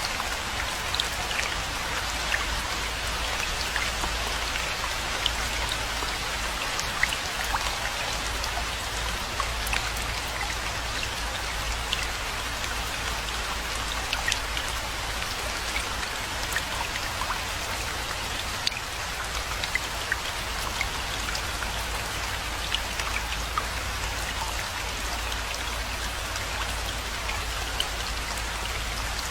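Steady rainfall, an even hiss of rain with many individual drops ticking on surfaces, and a constant low rumble underneath.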